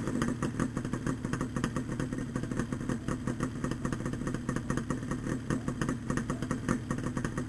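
Yamaha RD350LC two-stroke parallel-twin engine running steadily at idle through its Micron expansion-chamber exhausts, with a quick, even beat of exhaust pulses.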